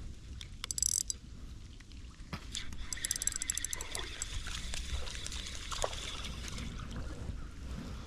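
Rain and trickling, splashing water with a low wind rumble, broken by two short runs of rapid high clicking, about a second in and again about three seconds in.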